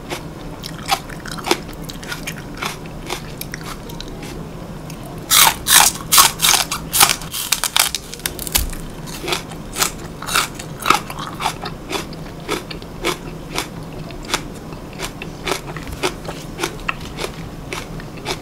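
Crisp crunching as a raw Korean green onion (daepa) stalk is bitten and chewed. A run of loud crunches comes about five seconds in, and quieter chewing crunches follow through the rest.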